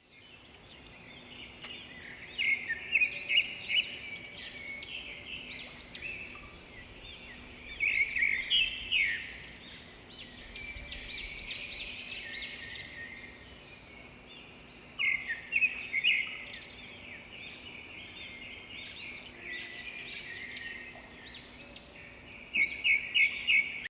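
Birds singing and calling, with many short overlapping notes. Louder bursts of quick repeated notes come four times, near the start, about a third of the way in, past the middle and near the end. A faint steady hum lies underneath.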